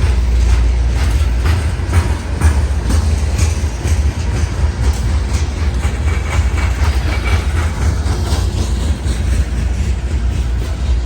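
A train rolling past, with a heavy low rumble and repeated clicks of wheels over rail joints, and a faint high squeal from the wheels in the middle.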